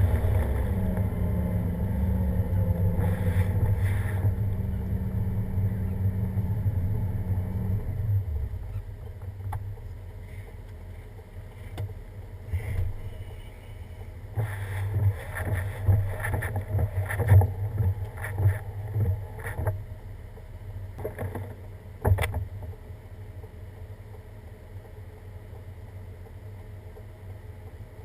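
A vehicle engine running with a low rumble that fades away about eight seconds in. After it come scattered bumps and rustles and one sharp knock near the end.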